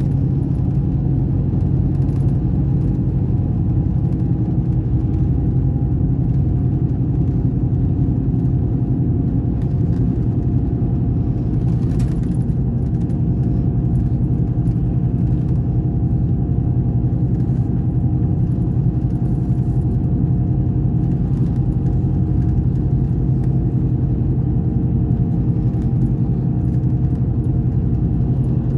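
Scania K420 bus's diesel engine running steadily with a constant low drone. The revs hold level, with no change in pitch.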